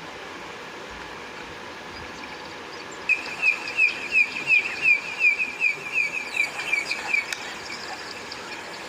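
Steady hiss, then about three seconds in a bird's rapid run of high, repeated chirps, about three a second, fading out after about four seconds.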